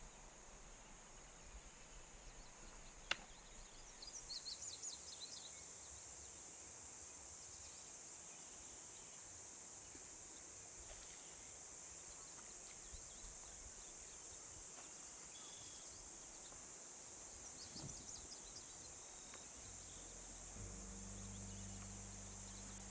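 Faint outdoor nature ambience: a steady high insect buzz, with a few brief bird chirps about four seconds in and again near the end. A single sharp click comes about three seconds in.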